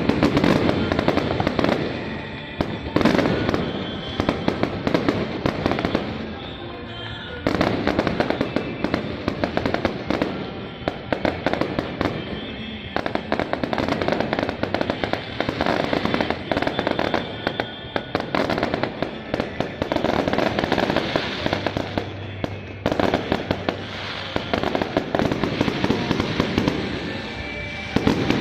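Fireworks going off in a dense, rapid stream of crackles and pops that eases off briefly a few times.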